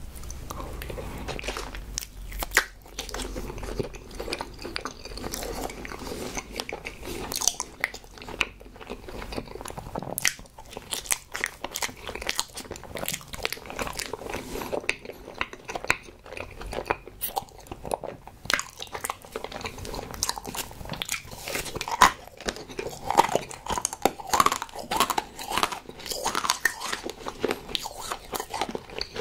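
Close-miked eating: a person biting and chewing soft strawberry desserts, wet chewing broken by many sharp mouth clicks.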